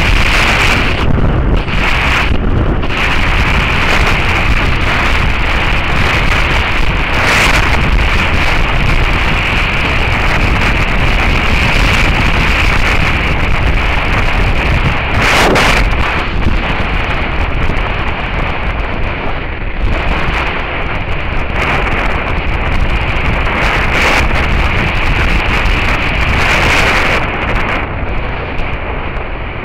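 Heavy wind noise buffeting the action camera's microphone on a moving Suzuki SV650S motorcycle, loud and steady, easing a little near the end.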